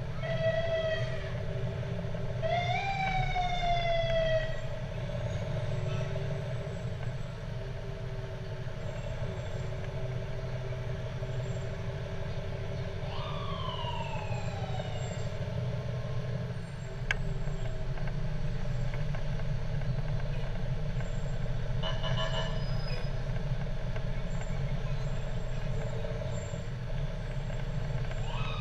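Fire truck sirens give short wails that rise and fall in pitch, three times, over the steady low running of truck engines, with a short horn blast about three quarters of the way through.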